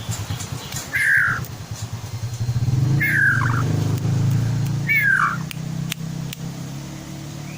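White-rumped shama (murai batu) giving three short falling whistled calls about two seconds apart. Beneath them an engine runs steadily as a low rumble, growing louder mid-way.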